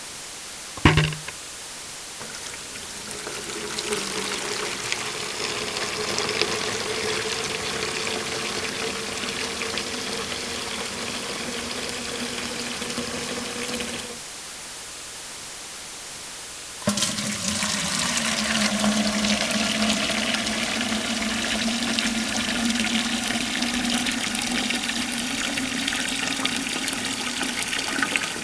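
Water rushing with a steady hum, heard as two takes: the first fades in and stops abruptly, the second starts suddenly about three seconds later. A short click comes about a second in.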